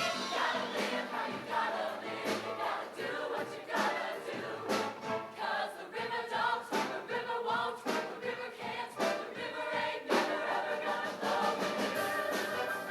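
Show choir singing in full chorus over a live band with drums.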